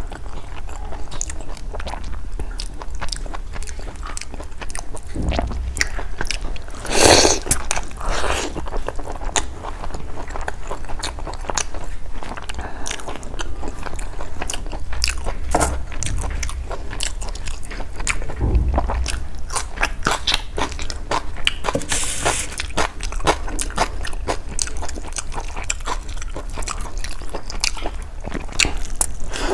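Close-miked chewing and wet mouth sounds of a person eating rice and chicken curry, with many small smacks and clicks and a few louder bites.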